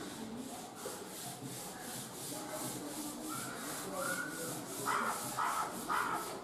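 House sparrow chirping three short times near the end, over a rhythmic hiss that pulses about three to four times a second.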